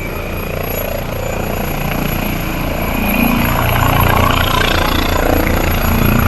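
Helicopter rotor beating with its engine running, growing steadily louder over the first few seconds and then holding loud.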